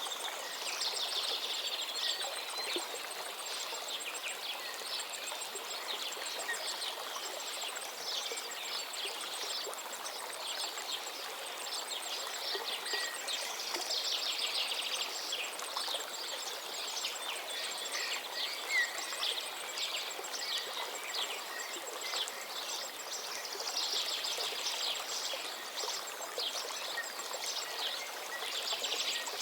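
A stream running steadily, with small birds chirping over it in bursts of quick, rapid chirps every few seconds.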